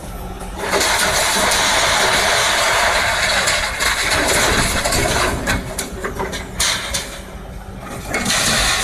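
Excavator engine running with a loud hissing rush that swells about a second in, fades around seven seconds and comes back near the end.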